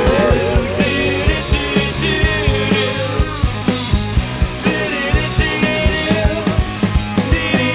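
Rock band playing a song, with drums keeping a steady beat under guitar.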